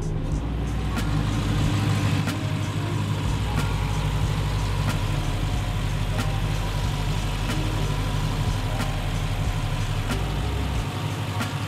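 The 6.4-litre 392 Hemi V8 of a 2019 Jeep Grand Cherokee SRT, heard from the open engine bay, idles steadily as it warms up on a newly replaced thermostat. A faint tick comes about every second and a quarter.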